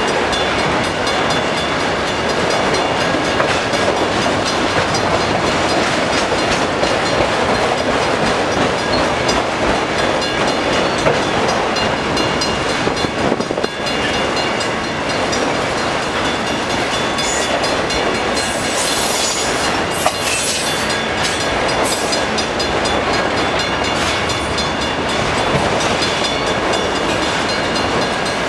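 Freight train of autorack cars rolling slowly past: steady rumble and clickety-clack of steel wheels over rail joints, with a brief high-pitched screech about two-thirds of the way through.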